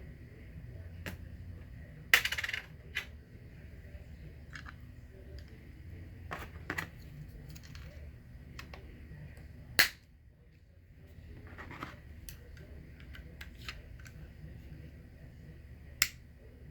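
Small clicks and rattles of a car remote key's plastic case and coin-cell battery being handled while the battery is swapped, with a rattling burst about two seconds in and a sharp loud click near the middle.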